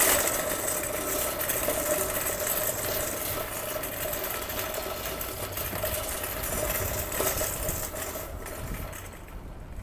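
A vehicle engine running steadily with a constant whine, fading away near the end.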